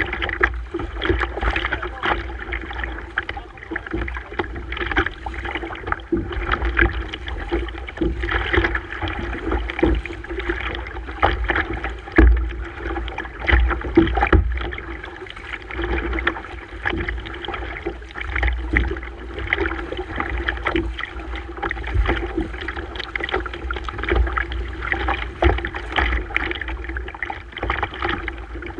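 Water splashing and slapping against a kayak on the sea, with frequent small knocks throughout over a low rumble.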